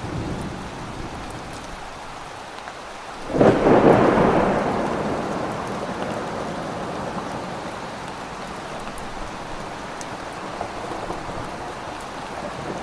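Steady rain falling, with a sudden loud thunderclap about three and a half seconds in that rumbles and slowly fades over several seconds.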